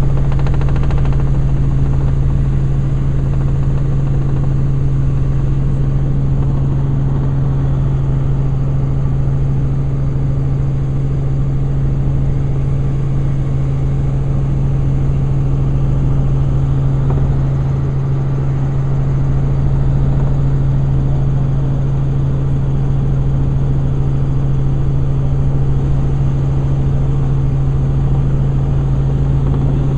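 Helicopter in flight, heard from inside the cabin: a loud, steady drone of engine and rotor with a strong low hum that holds one pitch.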